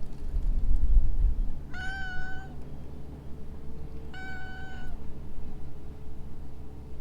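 Stray cat meowing twice, two short, level-pitched meows about two and a half seconds apart. A low rumble sits under the first second and a half.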